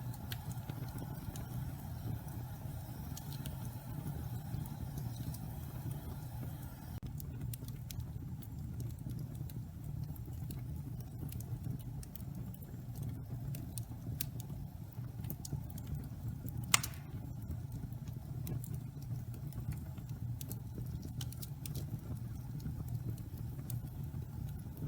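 Pine logs burning in a fireplace: a steady low rush of flame with scattered crackles and pops, and one sharp, loud pop about two-thirds of the way through. The wood is damp, and a faint hiss fades out about seven seconds in.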